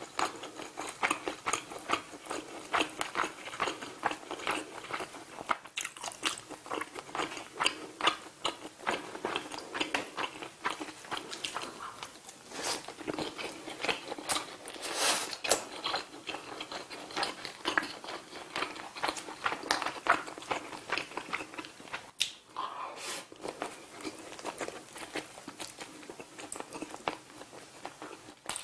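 Close-miked chewing of grilled saury and rice: a steady run of many small mouth clicks and soft crunches. There is one brief louder noise about halfway through.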